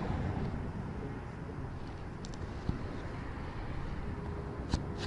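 Steady low rumble of road traffic, with a couple of sharp clicks near the end.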